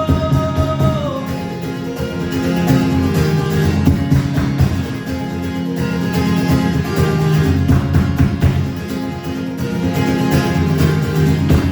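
Live guitar playing with singing: a held sung note slides down about a second in, then steady guitar strumming continues.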